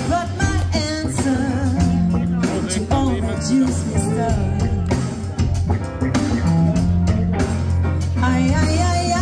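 Live band playing a rock song, with a singer over drums and guitar.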